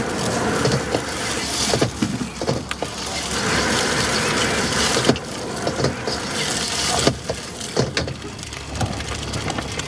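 Stir-frying in a wok: a steady sizzling hiss with irregular metal knocks and scrapes of the spatula against the wok.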